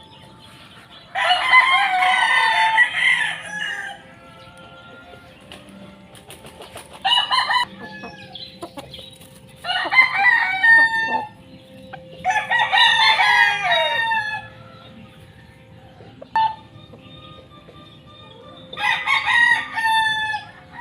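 Gamefowl roosters crowing, about five crows in turn, each lasting one to two and a half seconds.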